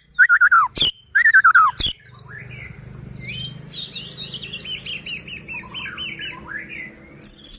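White-rumped shama (murai batu) singing: loud falling whistles and sharp cracking notes in the first two seconds, then a fast run of repeated chirping notes.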